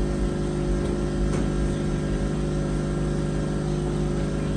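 Car engine idling steadily, an even hum that holds one pitch throughout.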